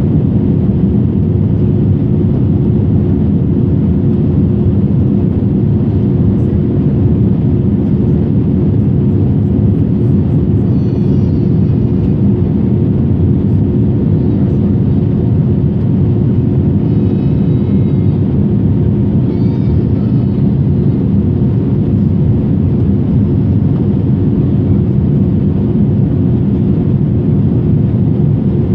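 Aircraft cabin noise in flight: a steady, loud drone of engines and airflow with a constant low hum, unchanging throughout.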